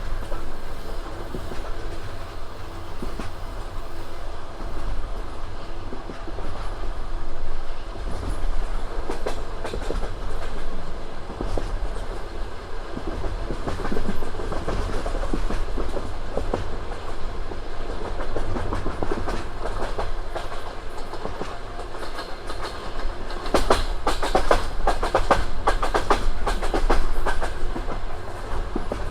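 Passenger train running along the line, its wheels clattering over the rail joints in a rhythmic clickety-clack over a steady rumble. A louder, denser run of clacks comes near the end.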